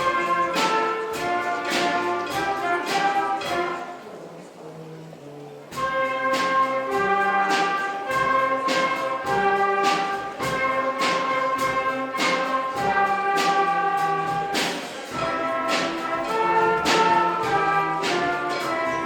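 Junior orchestra playing a brisk piece, with brass on top and regular drum strikes. About four seconds in it drops to a quiet, low passage for under two seconds, then the full orchestra comes back in.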